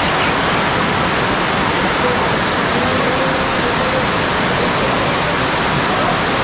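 Heavy rain falling on the open water of a pond, a steady loud hiss.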